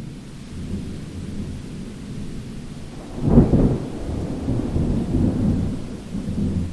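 Thunder rumbling low during a rainstorm, with a louder crack about three seconds in, then rolling on over the steady hiss of rain.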